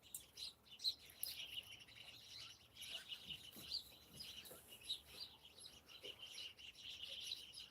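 Many small birds chirping at dusk: a faint, dense, overlapping chorus of short high chirps.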